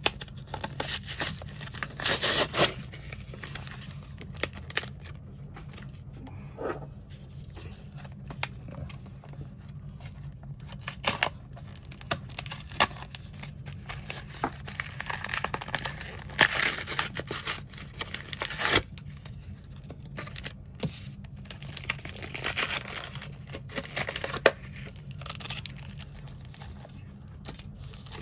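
Trading card pack wrappers being torn open by hand and crinkled, in irregular bursts with sharp crackles between quieter stretches, over a steady low hum.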